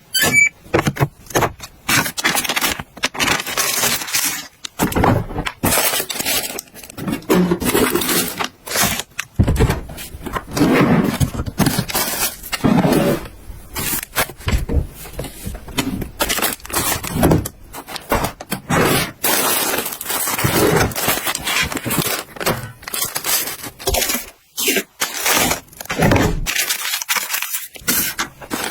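Household items being handled and set down one after another: a steady run of clicks, taps, scrapes and light clinks of plastic and glass containers.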